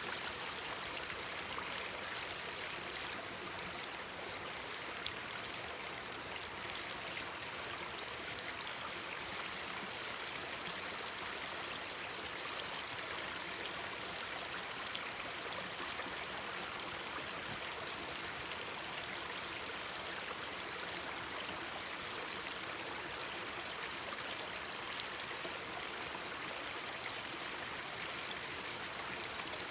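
Mountain stream babbling steadily, with a few faint clicks.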